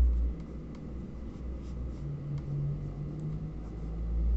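Pen writing on notebook paper, a few faint scratches and ticks over a low rumble of handling noise.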